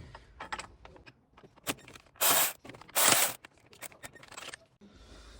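A hand wrench working on the water pump pulley nuts of a Lexus IS 250 V6, with light clicks of metal on metal and two loud scraping strokes about two and three seconds in as the nuts are cracked loose.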